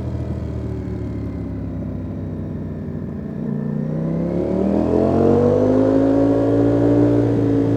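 Ducati Panigale V4 S's 1103 cc V4 engine under way, running at lower revs for the first few seconds, then the throttle opens about three and a half seconds in and the revs climb, louder, before holding steady.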